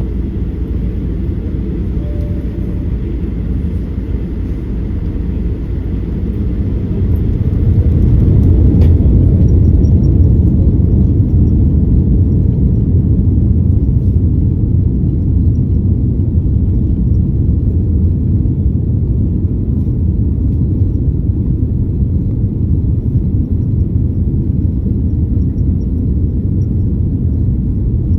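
Boeing 787 airliner on its takeoff run: a deep, steady rumble that grows louder from about six to nine seconds in, then holds.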